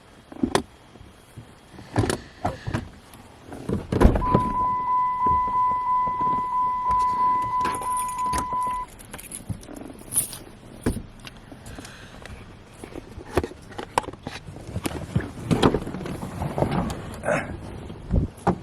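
Car door and keys being handled, with knocks and clicks; about four seconds in a loud knock is followed by a steady, high electronic warning chime from the car that lasts about four and a half seconds and then stops.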